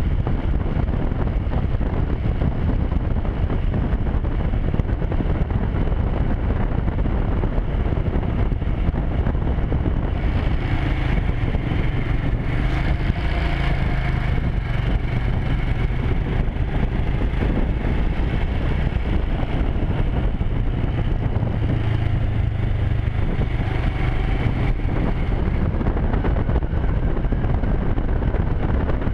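Wind rushing over the microphone of a moving motorcycle, with the engine running underneath. The engine note comes through more clearly from about ten seconds in and fades back into the wind near the end.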